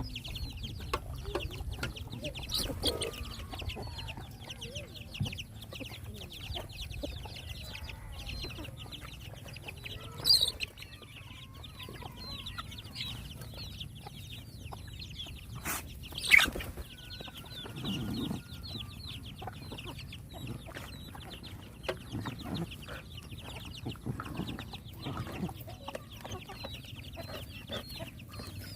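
Chickens clucking, with a steady run of short high-pitched calls over a low background rumble. Two sharp, louder sounds come about ten and sixteen seconds in.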